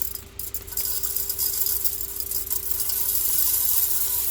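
Birdseed pouring into a bird feeder: a continuous rattle of small grains.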